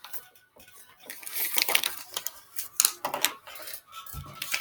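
Clicks, taps and rustling of colouring supplies being handled on a table, with a dull thump about four seconds in.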